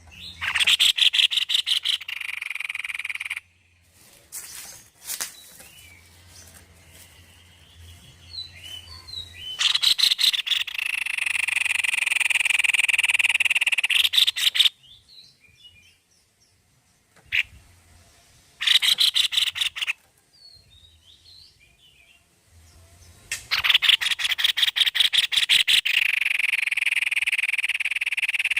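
White-necked babbler (tepus leher putih) singing in repeated loud bouts. Each bout opens with a quick run of sharp notes and runs into a long, steady trill, and quiet gaps with faint chirps come between the bouts.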